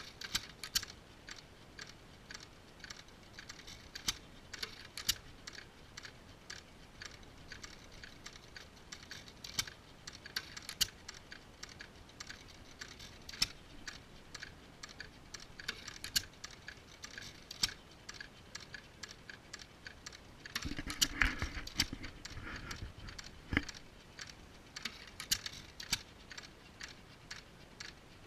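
Majestic and Waterloo hit-and-miss engines running, heard as an irregular string of sharp clicks and snaps. A louder, fuller burst comes about 21 seconds in.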